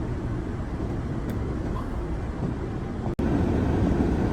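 Steady low rumble of a car heard from inside the cabin, with a brief dropout about three seconds in, after which the rumble is louder.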